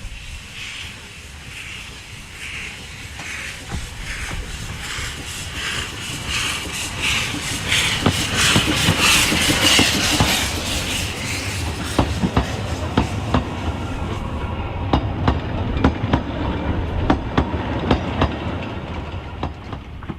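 Narrow-gauge steam locomotive working by with its train: rhythmic exhaust chuffs that quicken and grow louder to a peak about halfway through, then the carriage wheels clicking over the rail joints over a low rumble.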